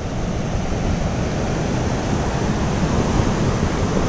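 Ocean surf breaking on the beach with strong wind blowing across the microphone, a steady rushing noise.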